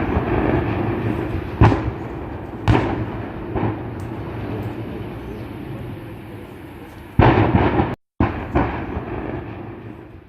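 Blasts from a burning LPG truck: a continuous rumbling roar broken by sudden loud bangs, three within a few seconds and a bigger burst later on.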